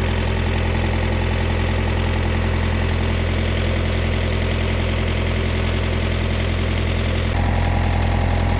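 The Mitsubishi K4F four-cylinder diesel of a Bomag RTK 455 road roller idling steadily after a semi-overhaul, with its bearings renewed. It is running smoothly, with a slight change in its note about seven seconds in.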